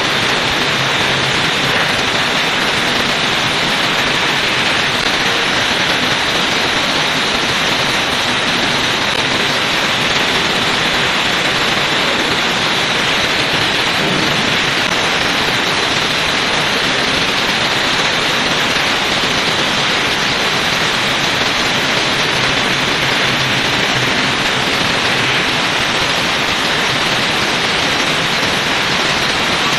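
Electric arc welding: a steady, loud crackling hiss from the welding arc, unbroken throughout.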